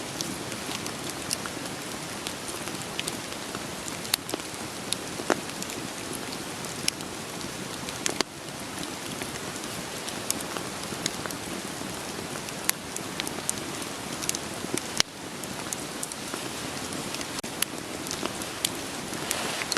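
Steady rain falling, with a wood fire crackling and popping in scattered sharp snaps over it.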